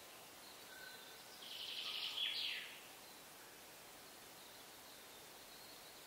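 Birdsong: one bright, rapidly trilling phrase about one and a half seconds in, lasting just over a second, with a few faint short whistled calls before and after, over a faint steady hiss.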